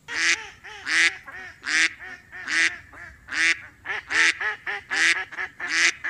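Duck quacking over and over: a loud quack about every second, with quieter quacks in between.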